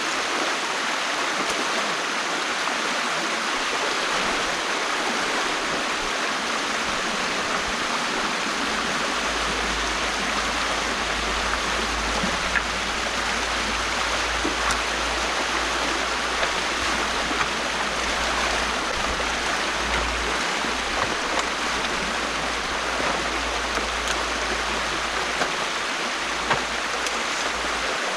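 Water rushing steadily through the opening in a beaver dam, with a low rumble joining about nine seconds in.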